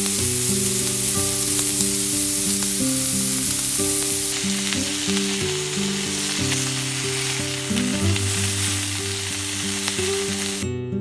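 Food sizzling in a hot pan: a steady frying hiss that starts and stops abruptly, over soft acoustic guitar music.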